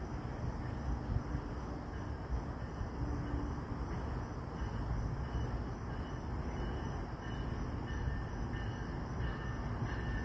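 NJ Transit commuter train with Bombardier bilevel cars approaching from a distance: a low, steady rumble of the train running on the rails.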